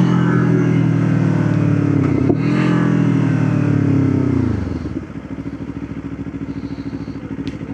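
Motorcycle engine running at steady revs, with a brief dip about two seconds in; about four and a half seconds in the revs fall away and it runs on slower and quieter, pulsing.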